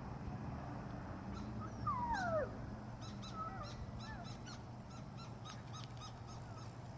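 A dog whimpering faintly: a high whine falling in pitch about two seconds in, then a string of short, high yips.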